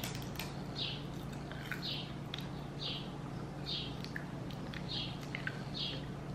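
A person chewing a crisp roasted seaweed snack, with a short crunch about once a second and small crackles in between.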